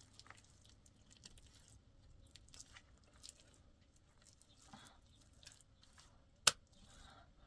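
Faint scattered small clicks and rustles of handling, with one sharp click about six and a half seconds in.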